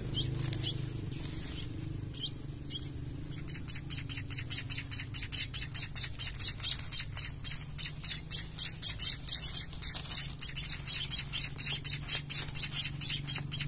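Munia nestling begging: rapid, evenly repeated high chirps, about four to five a second, starting a few seconds in and going on without a break.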